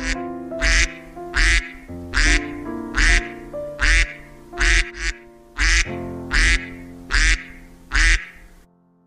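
Mallard duck quacking over and over, about eleven evenly spaced quacks roughly one every 0.8 seconds, with background music underneath. It stops shortly before the end.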